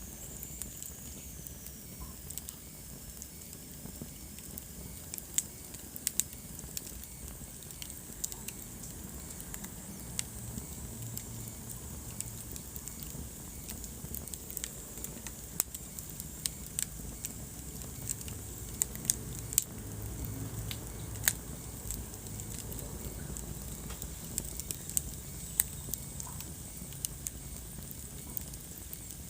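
Wood fire burning in a fireplace: irregular sharp crackles and pops over a steady low rumble of the flames, with a faint high hiss.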